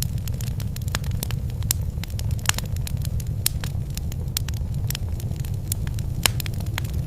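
Wood fire burning in a fireplace: a steady low rumble with irregular sharp crackles and pops, two of them louder, about two and a half seconds in and near the end.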